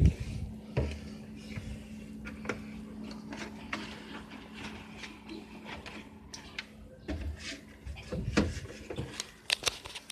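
A string of sharp clicks and knocks with rustling in between, like objects being handled and set down, over a steady low hum. The loudest knock comes right at the start, with another cluster near the end.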